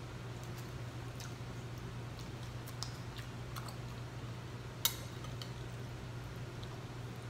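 Close-up chewing and wet mouth sounds of someone eating, with faint clicks of a spoon; one sharp click about five seconds in. A steady low hum runs underneath.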